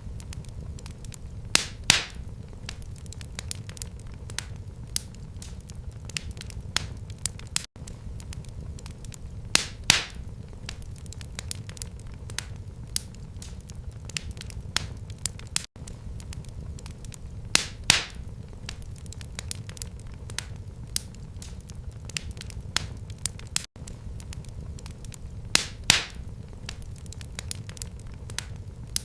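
Wood fire burning in a fireplace: a steady low rumble of flames with constant small crackles and a louder sharp pop about every eight seconds.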